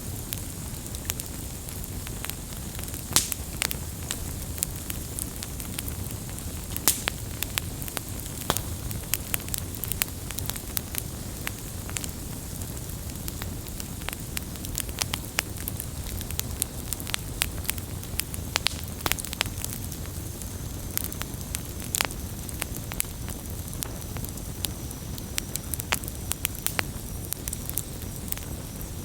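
Campfire burning, with a steady low rumble and hiss under frequent irregular crackles and pops from the burning wood, a few of them sharper than the rest.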